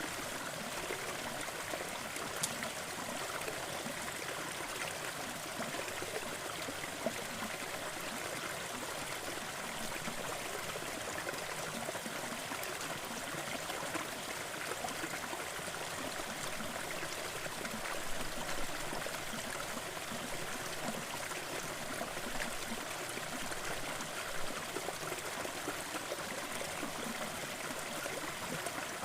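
Gentle waterfall running steadily: an even rush of falling, splashing water with the odd faint tick of a drip.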